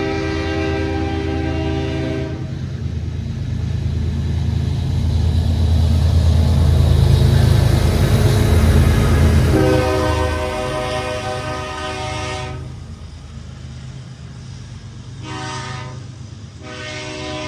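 Diesel freight locomotive blowing its multi-note horn for a grade crossing: a long blast fading out about two seconds in, another long one about ten seconds in, a short one and then a long one near the end. Between blasts the locomotive's engine rumbles past, loudest in the middle.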